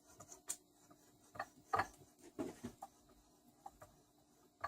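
About half a dozen light, scattered clicks and taps of metal parts and tools being handled on a small Tecumseh engine during teardown.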